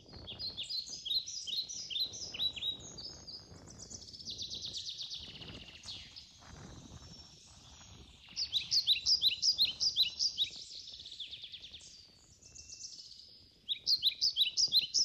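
Small songbirds singing: fast runs of short, high, falling chirps, several a second, coming in three stretches of a few seconds each with quieter gaps between.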